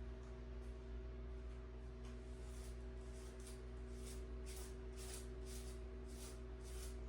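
Faint rhythmic hissing, about two short strokes a second, starting about two seconds in and growing stronger, over a steady low hum.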